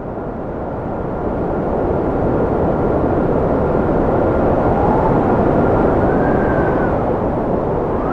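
Cold wind blowing in a loud, steady rush that builds over the first couple of seconds, with a thin whistle that holds one pitch, then bends up and back down twice in the last few seconds.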